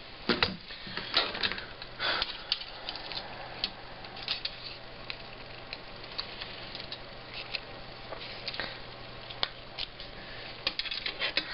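Scattered light clicks and taps, irregular, of tools and parts being handled on a workbench, over a faint steady low hum.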